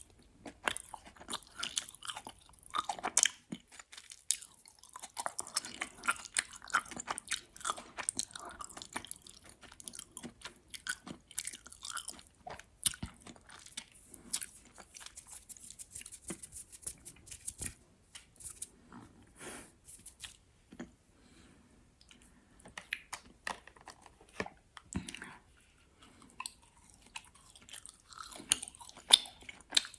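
Close-miked chewing of gummy worms: sticky, wet mouth sounds with irregular smacks and clicks as the candy is chewed, easing off briefly a little after the middle.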